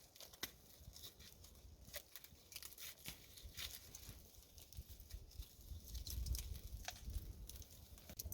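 Faint, scattered ticks and rustles of rope and split wood being handled as the quartered stump of a Finnish candle is tied back together.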